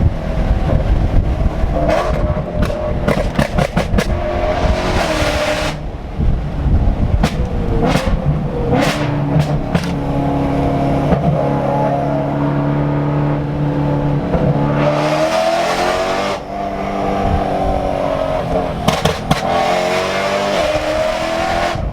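Straight-piped BMW E90 M3's S65 V8 revving up and down through the gears, with a steady held note in the middle and a rise in revs later on. Clusters of sharp cracks from the exhaust come on the downshifts.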